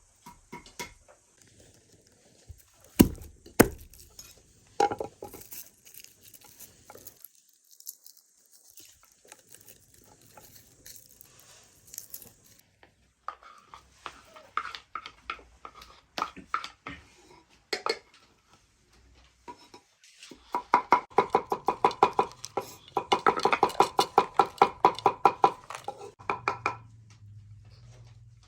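Kitchen utensils clinking and knocking on metal pots and dishes: scattered knocks at first, then a long run of quick, ringing metal strikes in the second half.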